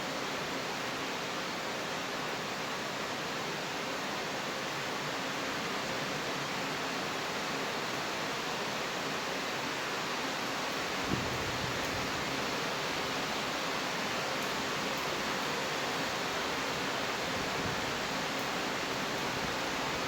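Steady rain falling, an even hiss. About halfway through a brief knock comes, after which a low rumble runs under the rain.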